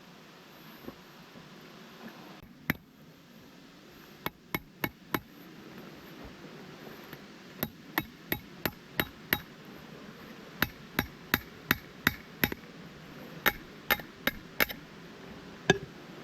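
Hammer blows in quick runs of four to eight strikes, about three a second, with short pauses between the runs and a few single blows.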